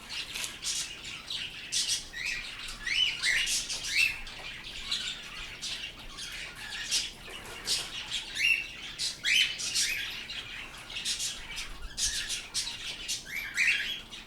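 Small pet birds chirping and squawking: a rapid, continuous stream of short, sharp calls.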